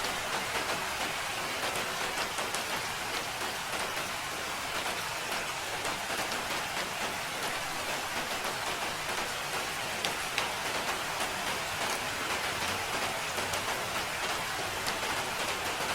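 Steady rain falling, a dense even hiss dotted with the ticks of individual drops.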